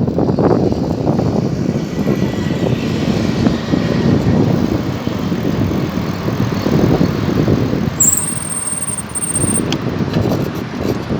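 Wind and road noise on a moving bicycle, with passing traffic, rising and falling in level. Near the end a thin, high whistle sounds for about a second and a half.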